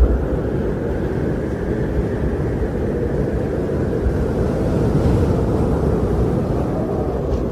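Steady wind blowing during a snowstorm: an even, low rush of noise that rises and falls only slightly, with no distinct events.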